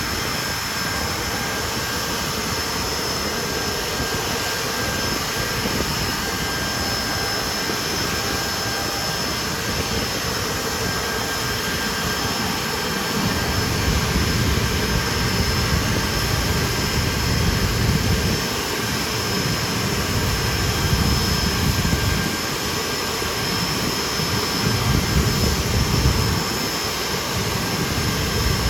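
Nimrod's Rolls-Royce Spey turbofan engines running steadily, a continuous jet hiss with a constant high whine. From about halfway through, a low rumble swells and falls several times.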